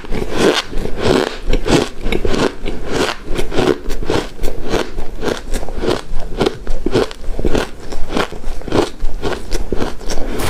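Close-miked crunching and chewing of shaved ice and snow ice: a dense, irregular run of crisp crackles from icy bites.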